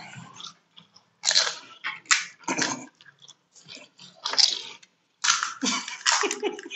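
Two people crunching and chewing pani puri, the crisp hollow fried puris eaten whole, in irregular loud bursts that come thickest near the end.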